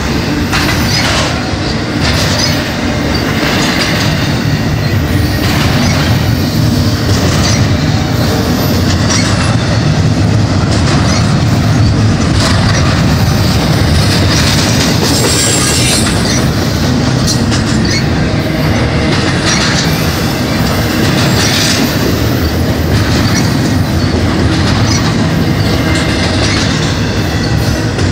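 Double-stack intermodal freight train's well cars rolling steadily past at close range, with their wheels knocking over the rail joints again and again.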